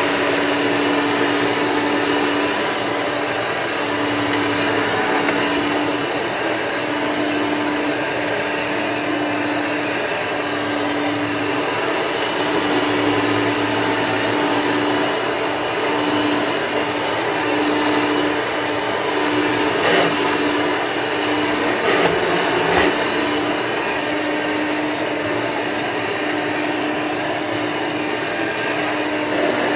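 Hoover Elite II upright vacuum cleaner running steadily: a constant motor hum over rushing air. A few short knocks come about two-thirds of the way in.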